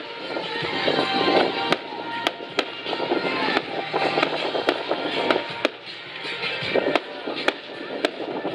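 Fireworks display: frequent sharp bangs from bursting shells over dense crackling, heaviest in the first half, with music playing underneath.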